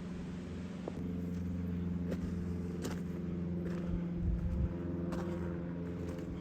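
A steady low mechanical hum, like an engine running, with a few short clicks and scuffs over it.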